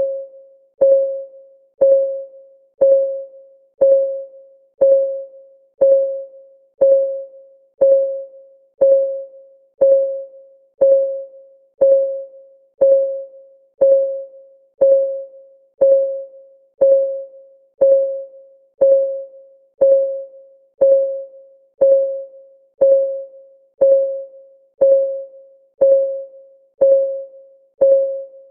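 Countdown timer's synthetic clock tick: one short, pitched tick each second, each a clear tone that starts sharply and dies away quickly.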